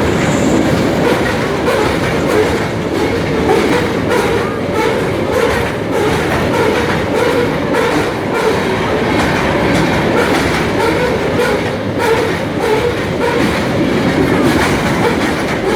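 Loaded coal train passing close by at speed: a loud, steady rumble of freight cars on the rails, with a rapid, irregular clatter of wheels over the track.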